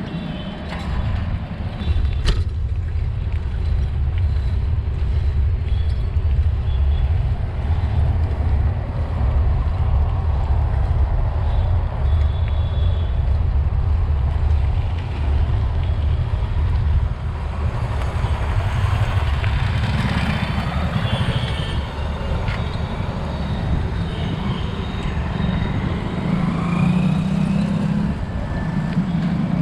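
Road traffic on a city street heard from a moving bicycle, with a steady low rumble throughout and some faint higher engine tones in the second half.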